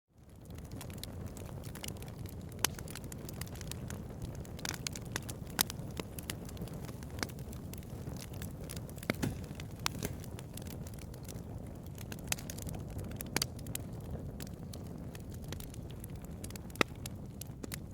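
Bonfire crackling: a steady low rumble of burning with irregular sharp crackles and pops, a few louder snaps among them. The sound fades in at the very start.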